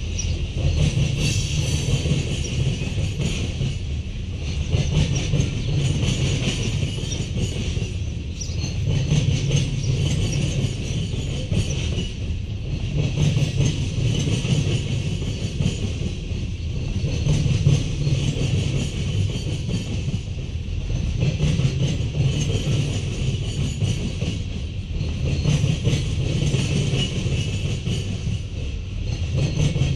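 Freight cars (loaded tank cars and covered hoppers) rolling past at low speed, with steel wheels clacking over the rail joints. The rumble swells and eases about every four seconds as each car goes by.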